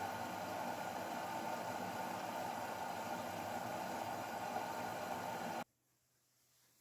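Grundig washing machine running early in a 20 °C colour-wash cycle, before the heater comes on: a steady hum with a hiss that cuts off abruptly about five and a half seconds in.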